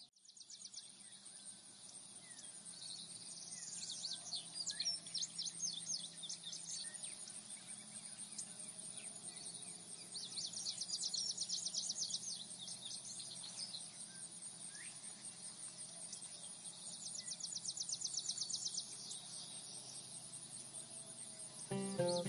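Insects chirping in dense, rapid pulsed trills that swell and fade, with occasional short bird chirps. Music comes in near the end.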